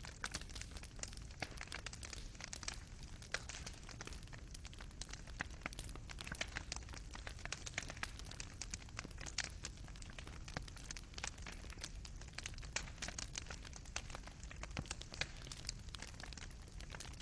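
Wood fire burning in a fireplace: a steady low rush of flames with dense, irregular crackling and sharp pops of burning wood and coals.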